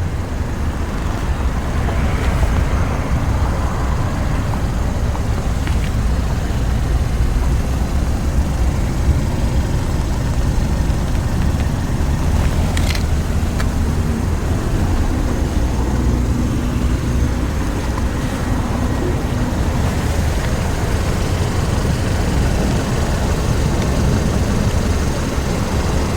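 Steady low rumble of road traffic, with a single sharp click about 13 seconds in.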